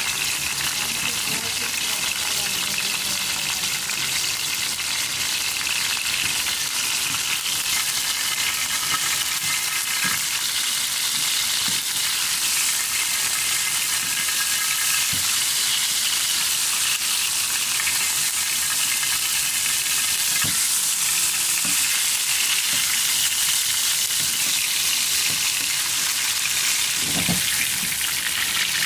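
Fish for finger fish frying in hot oil in a pan: a steady sizzle, with a few light knocks as a wire skimmer lifts and turns the piece.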